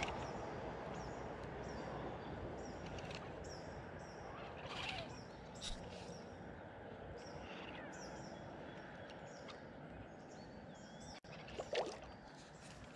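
Small birds chirping repeatedly over a steady outdoor background hiss, with a few brief handling knocks; a sharp, louder sound comes near the end.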